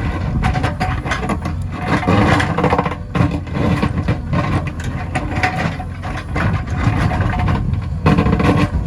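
JCB 3DX backhoe loader's diesel engine running steadily, with frequent short clanks and knocks over it.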